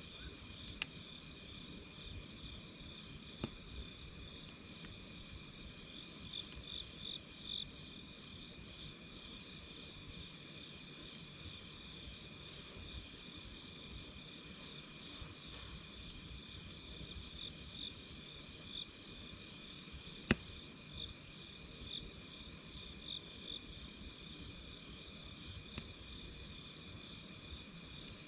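Steady insect chirping in a pulsing trill, with a few sharp pops from a crackling campfire; the loudest pop comes about two-thirds of the way through.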